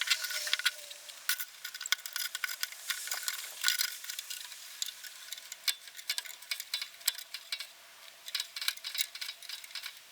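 A small car screw jack clicking and rattling as it is set and cranked up under the slack track chain of a Link-Belt excavator. Many light, irregular metallic clicks.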